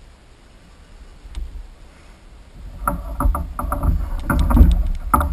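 Fishing reel's drag howling in a run of stuttering pulses as a hooked redfish pulls line off, starting about three seconds in, over a low rumble.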